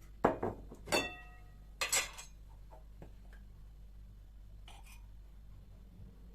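Dishes or glassware being handled: three knocks and clinks in the first two seconds, the second ringing briefly, then a faint scrape near the five-second mark.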